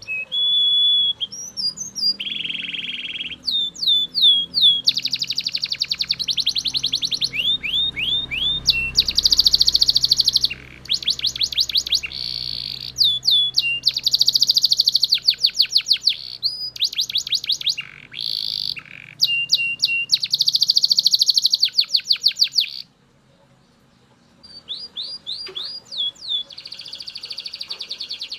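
Belgian canary singing loudly: long runs of fast repeated notes and trills, linked by short sweeping whistles. The song breaks off briefly about three-quarters of the way through, then starts again with a rising series of notes.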